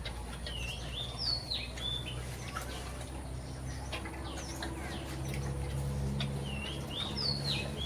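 A small bird singing a short phrase of wavy whistled notes twice, about a second in and again near the end, over a steady low hum.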